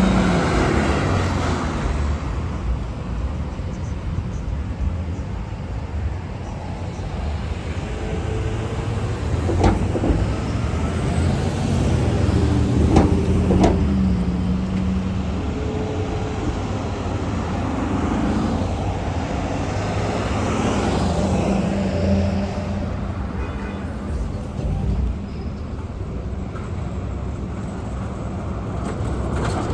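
Street traffic with buses and cars driving past: a steady low rumble of engines and tyres, swelling louder as vehicles pass about a third of the way in and again about two-thirds of the way in.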